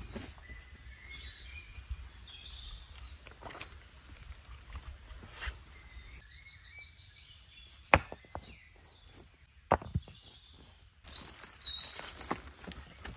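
Wild birds singing and calling in short whistles and trills. A few sharp knocks come in between, the loudest about eight seconds in and another just before ten seconds.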